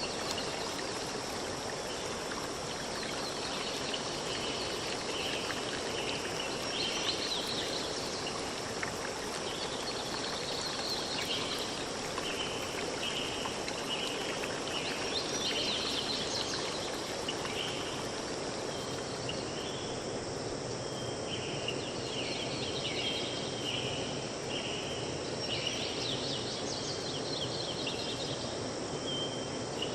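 Outdoor nature ambience: a steady insect drone over an even hiss. Short chirps repeat about once a second, and a few brief bursts of higher, busier chirping come through.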